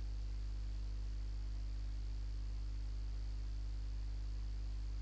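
Low, steady electrical mains hum with a faint hiss, unchanging throughout.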